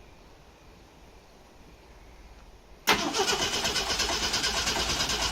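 Jeep J10 engine starting. After about three seconds of quiet it is suddenly cranked and fires, then keeps running with a fast, even pulse.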